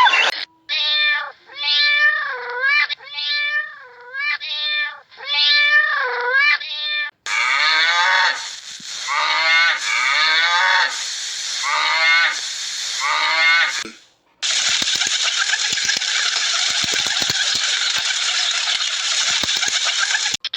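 A domestic cat meowing repeatedly, about six short meows, followed by a run of other, rougher animal calls. The last third is a steady noisy stretch with scattered clicks.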